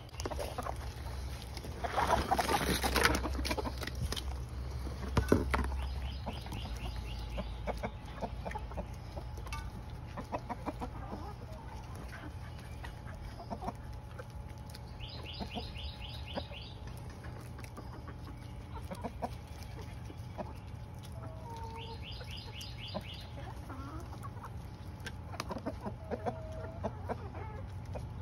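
Chickens clucking off and on over a low steady hum, with two short, rapid high trills partway through.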